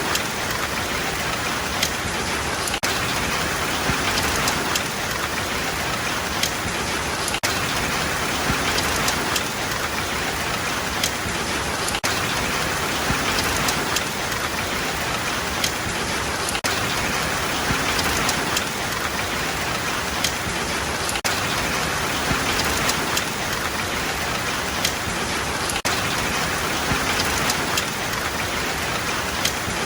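Steady rain falling, a dense even hiss with scattered sharp drop hits on nearby surfaces.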